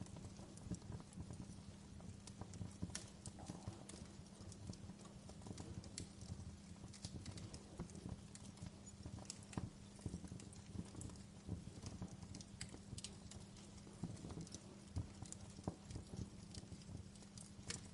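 Wood fire crackling in a fireplace: irregular small pops and snaps, a few louder than the rest, over a low steady hum.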